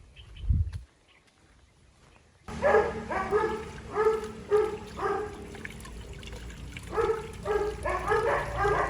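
A dog barking repeatedly in two runs of short barks, about two a second, after a low thump about half a second in.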